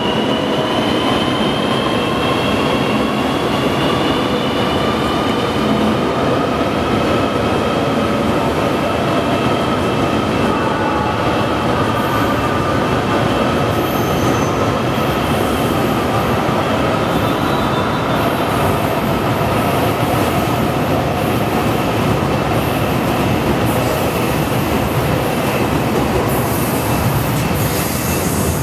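High-speed electric train running past a station platform: a steady loud rushing rail noise with a whine that rises slowly in pitch over the first dozen seconds and then holds.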